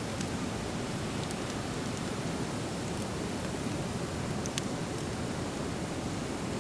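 Driftwood campfire burning, with a few sharp crackles and pops scattered over a steady low rushing noise.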